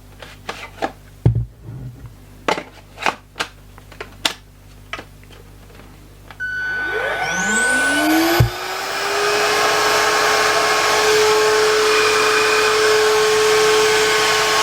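SilverCrest SHAZ 21.6 B2 cordless vacuum cleaner with a 130 W motor: a series of sharp clicks, then about six seconds in the motor starts, its whine rising in pitch as it spins up, and then runs steadily, with one knock about two seconds after the start.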